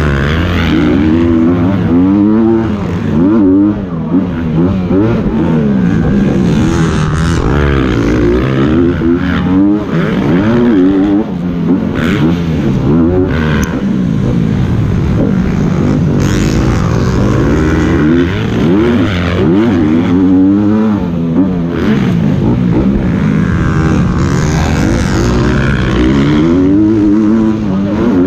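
Dirt bike engines revving hard during a motocross race, the pitch rising and falling again and again with throttle and gear changes, with several bikes at times overlapping.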